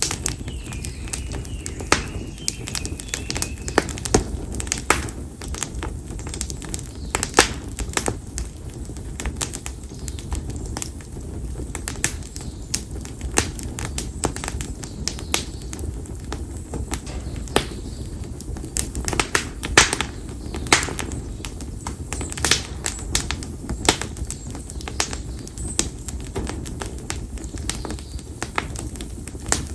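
Split konara oak logs burning in an open wood fire, crackling and popping irregularly, with sharper pops now and then over a steady low rumble of flame.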